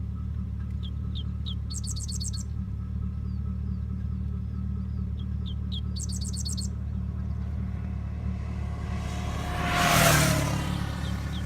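Birds chirping in short high trills, twice, over a steady low engine idle. About ten seconds in, a motorcycle passes close by, its noise swelling and fading with a slight drop in pitch.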